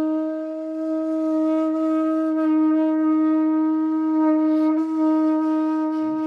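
Andean conch shell trumpet (pututo) blown in one long note held at a steady pitch.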